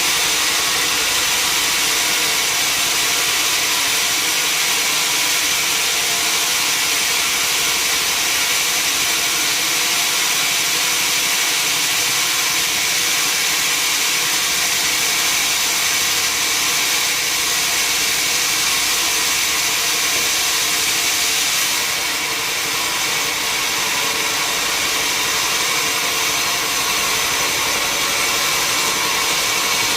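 Sawmill saw machinery running steadily: a constant high whine over a bright hiss, dipping slightly in level about 22 seconds in.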